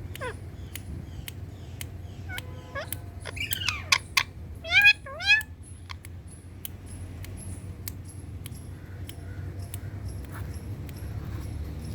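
Indian ringneck parrot giving a few short calls that glide up and down in pitch, loudest a little before the middle. Under them is a faint, regular ticking, about two or three ticks a second.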